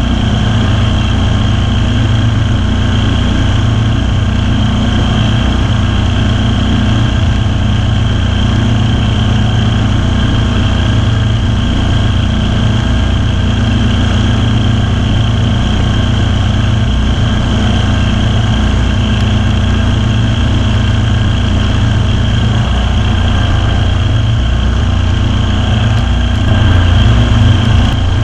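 Kawasaki V-twin engine of a Ferris zero-turn lawn mower running steadily, heard up close from the machine itself, getting briefly a little louder near the end.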